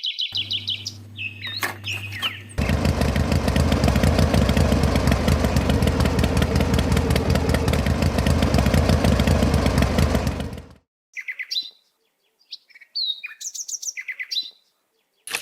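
A motor running with a fast, even rattle for about eight seconds, preceded by a low steady hum. Birds chirp before and after it.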